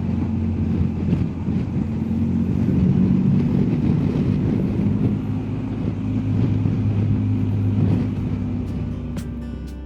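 BMW R1250GSA's boxer-twin engine running steadily under way, with wind and road noise over the microphone. Near the end the ride sound fades and background music with plucked notes comes in.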